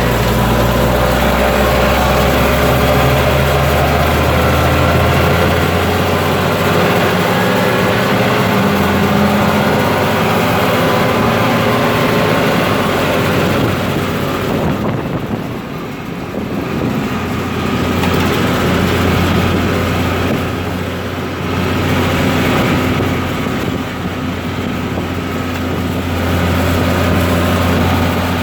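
Deutz-Fahr Agrotron 150.6 tractor's six-cylinder diesel engine running, its low hum stepping up in pitch about a second in, with a faint whine above it. The level sags and the sound dulls a few times in the second half.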